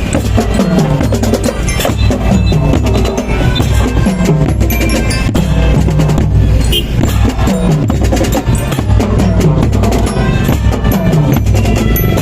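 A school marching band playing, with drums and percussion beating fast and steadily under the melody.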